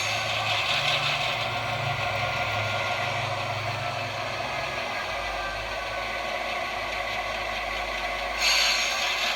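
Model railroad locomotive running slowly on the layout to couple onto a car, a steady low hum that drops in pitch about halfway through, with a short hiss at the start and again near the end.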